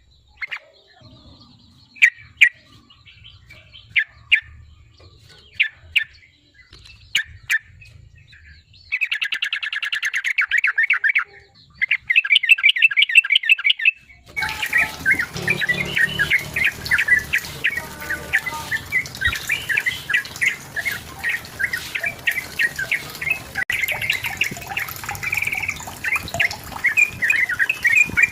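Sooty-headed bulbul calling: separate sharp chirps at first, then fast rattling trills about nine seconds in. About halfway through, the recording changes to a denser, unbroken run of chattering song over a background hiss.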